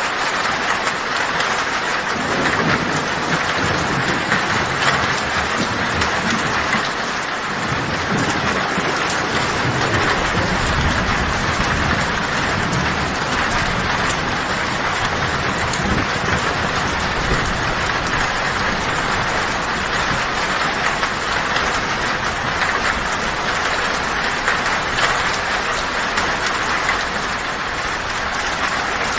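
Heavy rain drumming steadily on a tin (corrugated metal) roof, with thunder rumbling low underneath; the rumble builds a couple of seconds in and eases off near the end.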